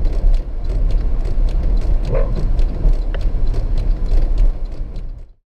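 Car cabin road noise: a steady low rumble with a scatter of irregular sharp taps and clicks, cut off abruptly near the end.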